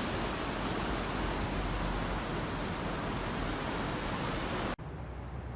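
A steady rushing noise that cuts off suddenly near the end, where a quieter hiss takes over.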